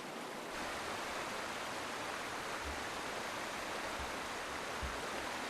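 Steady rushing of a flooding river, an even hiss of water without distinct splashes, which fills out about half a second in.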